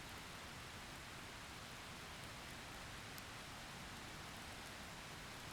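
Faint, steady hiss of heavy typhoon rain, with a few light ticks from drops.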